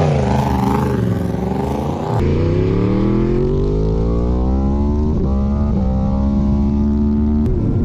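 Yamaha R1's crossplane inline-four (CP4) engine heard onboard on track. Its note falls as the bike slows, then it accelerates hard with the pitch climbing steadily. Two quick breaks in the note come like rapid upshifts, and it holds a high, steady note before turning rough and noisy near the end.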